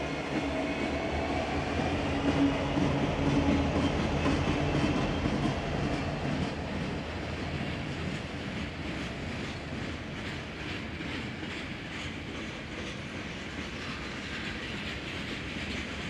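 BNSF freight train passing close by. The diesel locomotives' engines drone loudest in the first few seconds and then fade as the boxcars roll past, their wheels clicking steadily over the rail joints.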